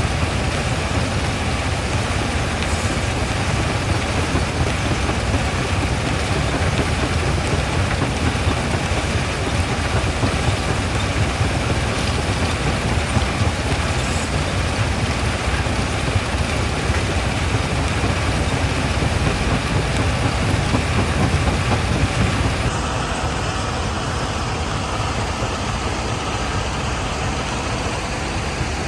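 Primary jaw crusher running, a loud steady rumble of heavy machinery with rock grinding through it and a few faint knocks. About 23 seconds in the sound shifts to a slightly quieter, steadier engine-like hum.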